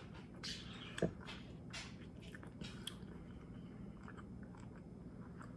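A person chewing a mouthful of a wrap, with wet mouth clicks and smacks that are busiest in the first three seconds and then fainter, over a low steady hum.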